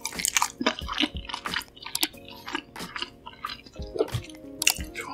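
Close-miked chewing and eating sounds, a quick run of sharp clicks and crunches, over soft background music with steady held notes.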